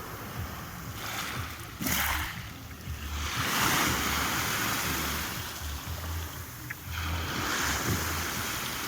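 Sea waves washing onto the shore, swelling in three surges, the longest about halfway through.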